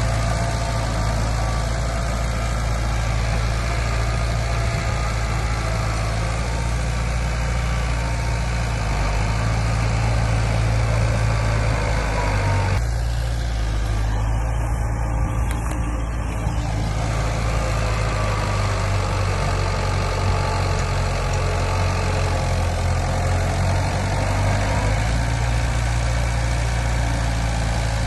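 Diesel engine of heavy earthmoving machinery running steadily, a strong low drone whose pitch shifts slowly up and down.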